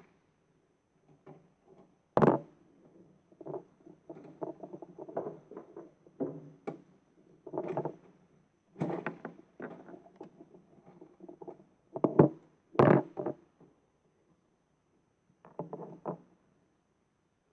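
Plastic toy garbage truck and its bins being handled: irregular short knocks and clatter, with louder knocks about two seconds in and twice around twelve to thirteen seconds.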